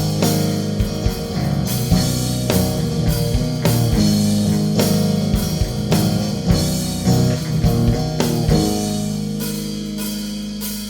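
Rock band playing an instrumental passage with no vocals: guitar over a drum kit beat. Near the end the drums drop out and a held chord rings and fades.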